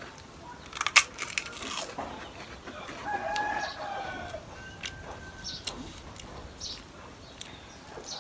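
A rooster crowing once: one long call about three seconds in. It sounds over the clicks and crunches of eating, with a sharp clack about a second in.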